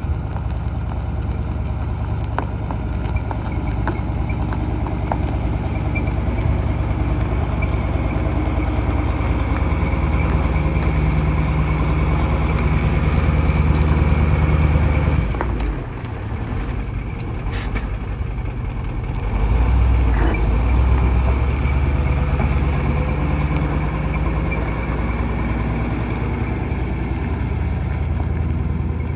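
International Harvester 1854 medium-duty truck's engine running, growing louder, then dropping off sharply about halfway through and picking up again a few seconds later, with a single sharp click in the lull.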